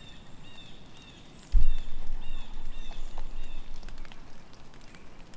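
A small songbird calling a short two-part chirp over and over, about twice a second. About a second and a half in there is a sudden low thump, the loudest sound, followed by a low rumble for a couple of seconds.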